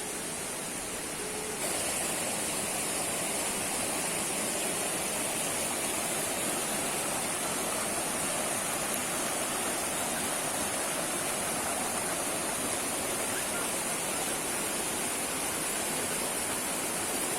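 Segenter waterfall's falling water rushing steadily. It gets abruptly louder about a second and a half in, then holds.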